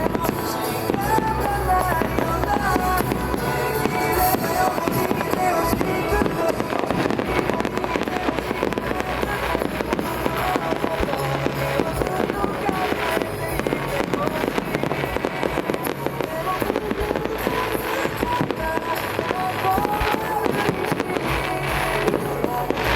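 Fireworks bursting again and again, with crackles, over recorded pop music playing through loudspeakers.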